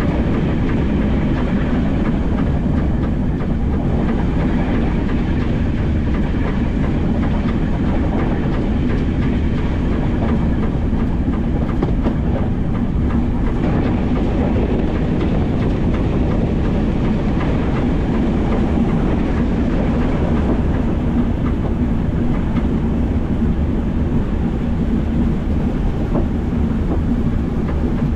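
Metre-gauge narrow-gauge train running along the track: a steady rumble and rattle of wheels on rails with a low steady hum underneath.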